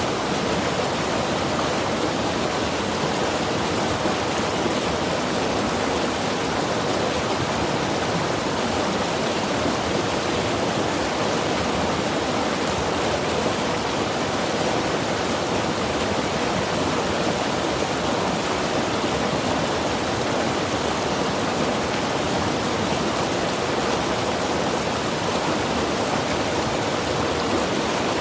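Mountain river rushing over rocks: a steady, even roar of flowing water that doesn't change.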